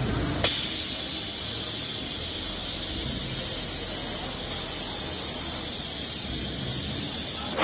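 Steady high hiss of air or spray from production-line machinery, switched on with a click about half a second in and stopping with another click near the end.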